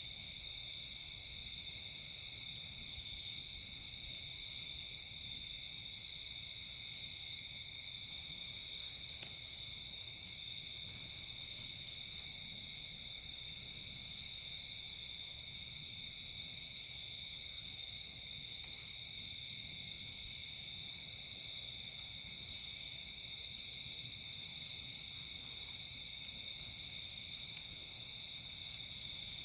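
Steady chorus of night insects such as crickets: a continuous high-pitched trilling without a break.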